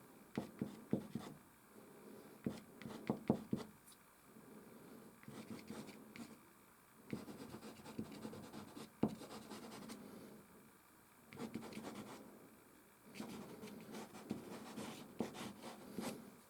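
Soft pastel stick scratching and rubbing across canvas in bursts of strokes with short pauses, broken by several sharp taps.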